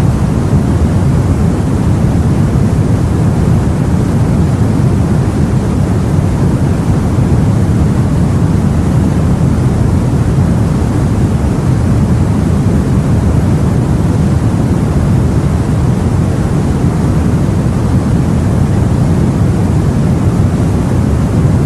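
Steady low rumble of sea and wind, an even wash with no single waves or gusts standing out.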